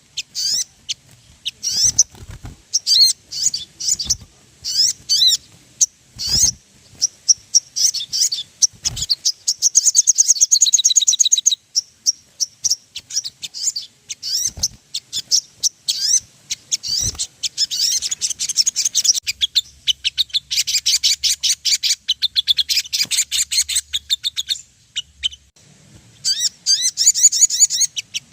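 Sogon birds singing: rapid high-pitched chirps and short sweeping notes, broken by fast dry trills, with a long continuous trill from about 18 to 24 seconds in.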